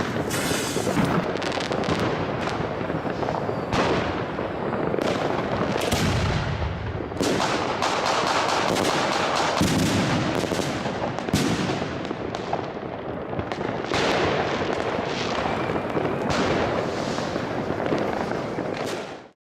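Homemade fireworks going off in a dense, continuous barrage of bangs and crackling, cutting off suddenly near the end.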